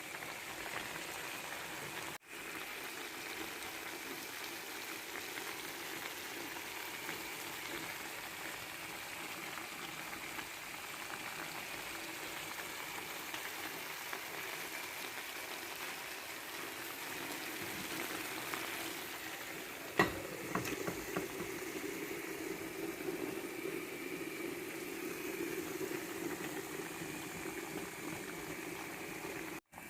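Clams in olive oil and tomato sauce bubbling steadily in a pan as they cook open. About twenty seconds in there is a click, after which the bubbling sounds a little lower and fuller.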